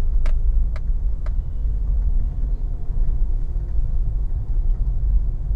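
Low, steady rumble of a car's engine and tyres heard inside the cabin as the car moves slowly, with three sharp clicks about half a second apart in the first second and a half.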